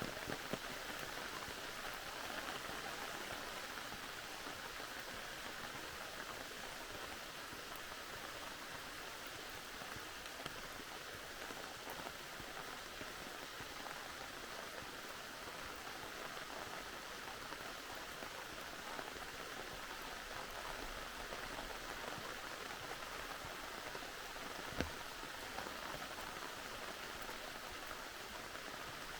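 Steady rain falling, an even hiss with a few sharper single drop hits, the clearest one near the end.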